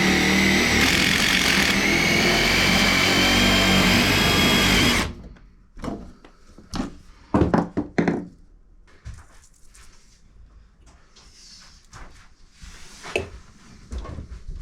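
A power drill runs steadily at full speed for about five seconds, then stops abruptly. A few sharp knocks and clatter follow, then quieter handling noise.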